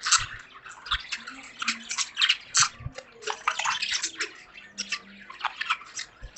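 A flock of budgerigars chattering: quick, overlapping short chirps and squeaks with no pause, over the steady patter of rain.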